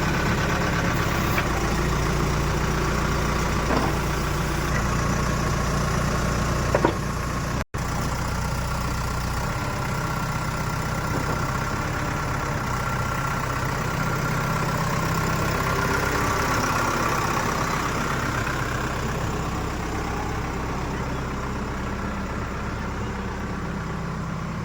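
Heavy diesel machine engine running steadily at a low, idle-like speed. The sound cuts out for an instant about eight seconds in.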